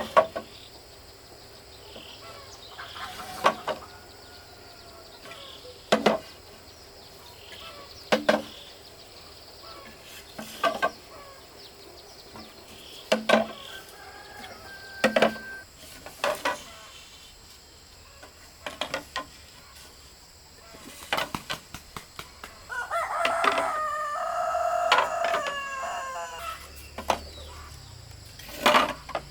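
A rooster crows once, a long call about three-quarters of the way through. Through the whole stretch there are sharp knocks every two seconds or so.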